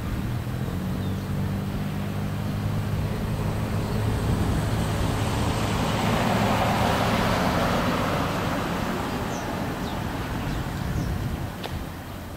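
Road traffic: a low engine hum, then a vehicle passing, its noise rising to a peak a little past halfway and fading away.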